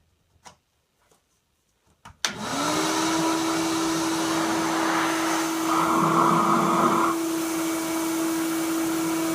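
A Ridgid shop vac switched on with a click about two seconds in, its motor spinning up to a steady whine over rushing air, running with a noise muffler fitted to its exhaust port. The airflow gets briefly louder for about a second midway.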